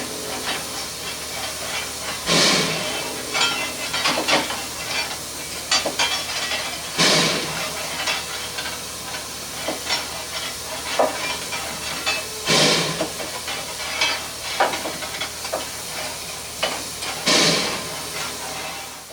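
Air pump on a standing narrow gauge steam locomotive working slowly, a loud chuff about every five seconds with lighter clicks between, over a steady hiss of steam.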